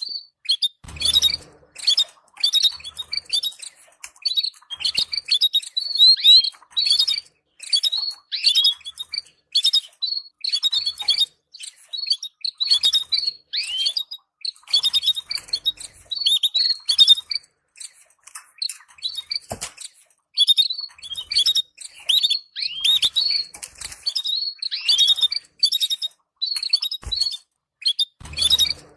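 Canaries twittering: rapid bursts of short, high chirps, many sliding downward, repeated with brief pauses between bursts. A few soft low thumps come through now and then.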